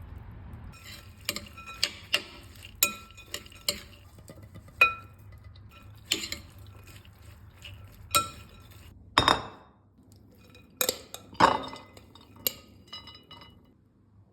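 Cutlery clinking and scraping against a dish: a dozen or so sharp, irregular clinks, each with a brief ring, as a salad is mixed or served.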